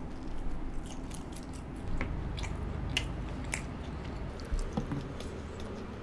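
Close-miked chewing of a soft mouthful of rumali roti, with wet smacks and several sharp mouth clicks about two to three and a half seconds in.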